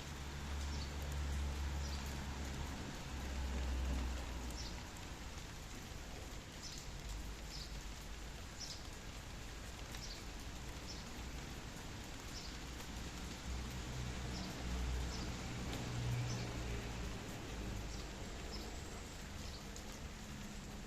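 Steady rain falling, with short high chirps, likely a bird, repeating every second or so through the first two-thirds. A low rumble swells now and then underneath.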